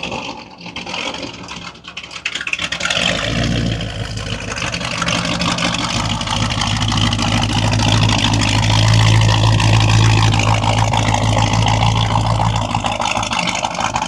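A car engine running close by: a deep, steady rumble comes in about three seconds in and grows louder, with a brief dip near the end.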